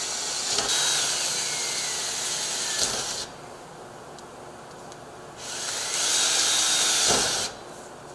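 Power drill boring 1/8-inch pilot holes through a storm door: one run that stops about three seconds in, then a second run of about two seconds near the end.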